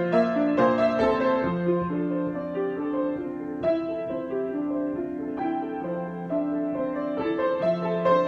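Solo piano improvisation: slow, gently moving chords with notes struck and left to ring.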